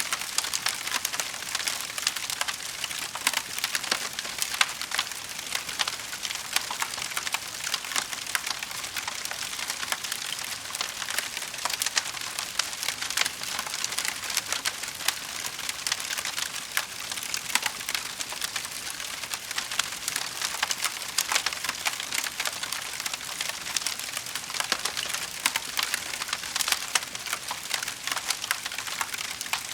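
Wood fire crackling steadily in a fireplace, a constant hiss of small snaps with louder pops scattered throughout.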